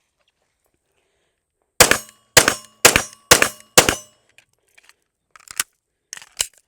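SIG Sauer P320 Spec Series 9mm pistol fired five times in quick succession, about half a second apart, followed by a few fainter sharp clicks near the end.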